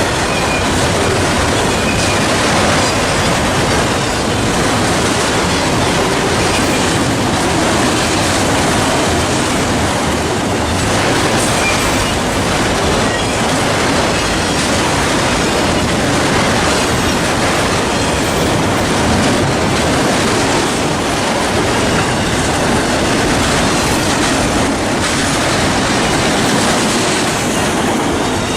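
Norfolk Southern freight train rolling past steadily, its cars' wheels running along the rails.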